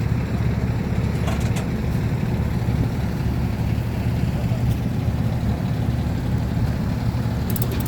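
Heavy truck engine idling with a steady low rumble, with a few faint clicks about a second and a half in and again near the end.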